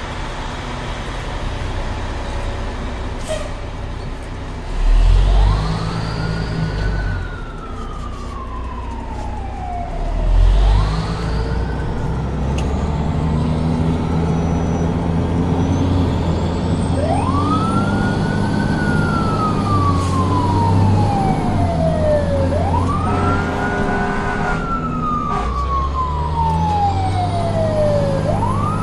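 Toy fire truck's siren sound wailing: five wails that each rise quickly and then slide slowly down, over a steady low engine-like rumble.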